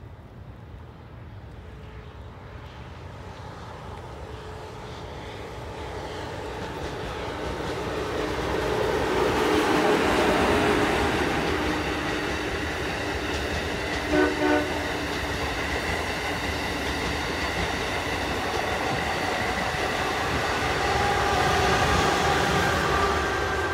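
Amtrak Acela Express trainset passing: its rail noise builds from faint to a steady rush of wheels on rail as the cars go by. There are two short horn toots about halfway through, and a whine near the end as the rear power car passes.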